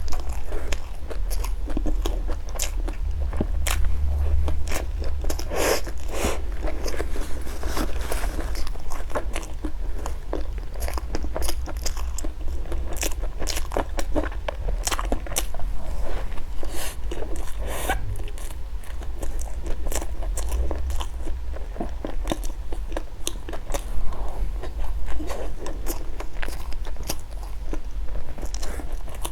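Close-miked mouth sounds of a person eating: bites and chewing, with a continuous run of small crunches and wet clicks at an irregular pace.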